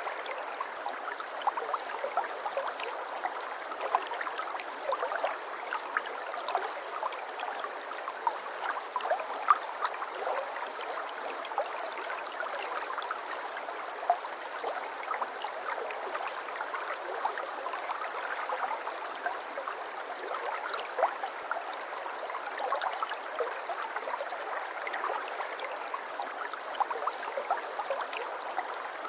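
Shallow brook babbling over stones: steady running water with many small gurgles and splashes.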